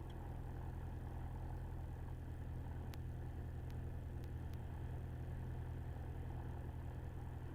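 Jabiru light aircraft's engine idling steadily, a constant low hum with no change in speed, heard from inside the cockpit during the pre-takeoff wait.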